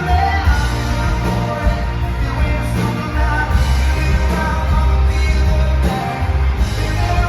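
Live rock band playing, with heavy bass notes under guitar and a voice singing.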